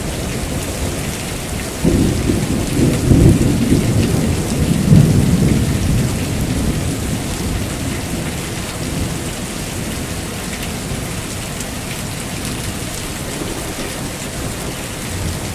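Heavy rain falling steadily. About two seconds in, a thunderclap breaks into a rolling rumble that peaks and then dies away over the next several seconds.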